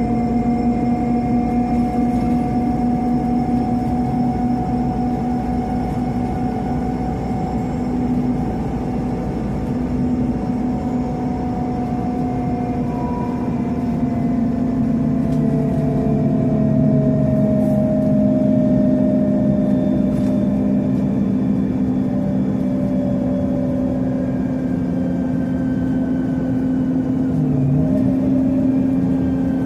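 Scania CN270UB CNG city bus heard from inside the cabin: engine and drivetrain running with a steady low rumble and a whining tone that slowly falls in pitch, then rises again near the end.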